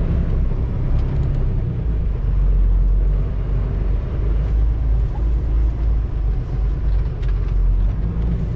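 Semi truck's diesel engine running with a steady low rumble while the truck is manoeuvred into a parking spot.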